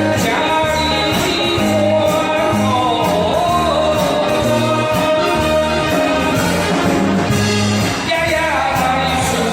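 A man singing a Taiwanese Hokkien pop song with accompaniment, over a steady bass beat.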